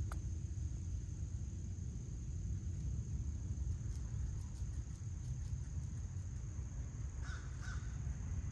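Backyard ambience: a steady low rumble, a continuous high insect trill, and two short bird calls in quick succession about seven seconds in.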